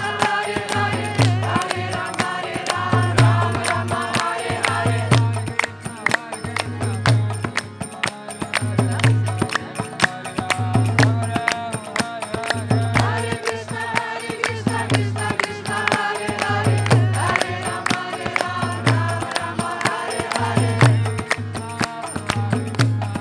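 Kirtan music: chanting over a steady bass drum beat about once a second, with hand cymbals clashing throughout.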